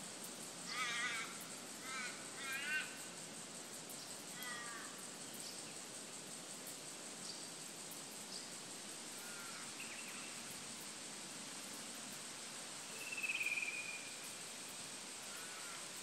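Birds calling in forest ambience: three harsh, wavering calls within the first three seconds, a few fainter calls after, and a brief higher call about 13 seconds in, over a steady hiss.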